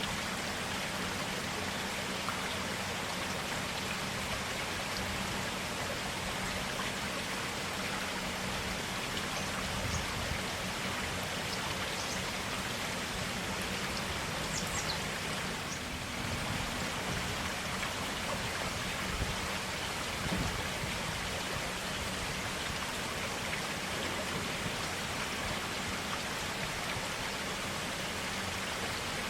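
Forest stream running steadily over rocks, an even, continuous water rush.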